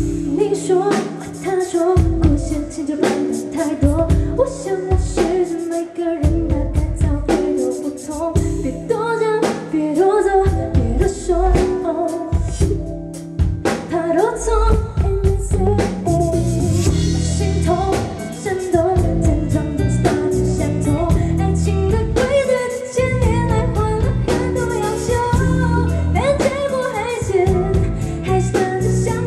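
A female singer singing a pop song live with a band of drum kit and guitar.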